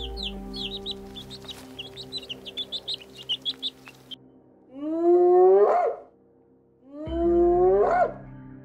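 Ducklings peeping in a rapid run of short, high, downward chirps for about four seconds. Then a spotted hyena gives two loud whoops, each about a second long and rising in pitch, over a steady background drone.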